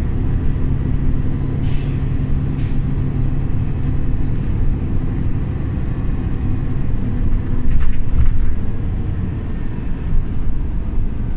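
Scania OmniLink CL94UB city bus under way: a steady low engine and road rumble, with a few short rattles or clicks about two and eight seconds in.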